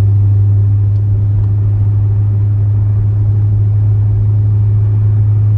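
Supercharged LT4 V8 of a C7 Corvette Z06, fitted with a BTR stage 2 camshaft, running at a steady cruise: a loud, even low drone heard from inside the car.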